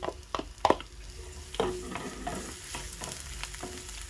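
Chopped red onions sizzling in hot cooking oil in a pan while being stirred, with a few sharp knocks of a utensil against the pan in the first second. The sizzle swells about a second and a half in and then holds steady.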